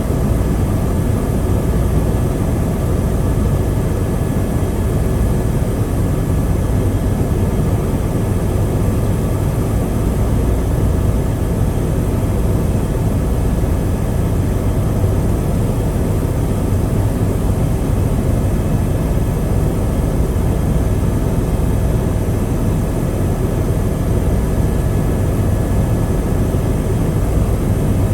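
Helicopter engine and rotor noise: a loud, steady drone, strongest in the low end, with a few faint steady whining tones above it.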